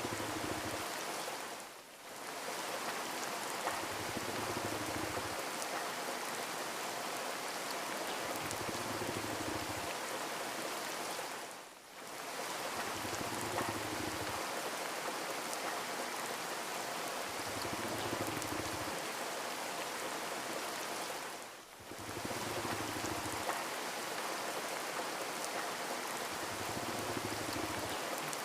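Steady rain falling, an even hiss that dips out briefly three times about ten seconds apart, with a soft low hum that comes and goes every few seconds.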